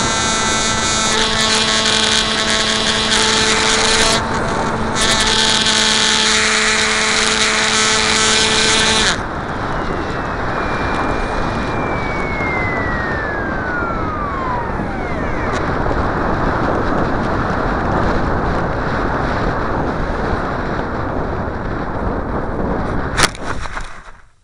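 Electric motor of a Bixler RC plane whining steadily under heavy wind rush, then cutting off abruptly about nine seconds in. The wind rush carries on after the cut, with a slowly falling whistle, and a single sharp click near the end before the sound drops away.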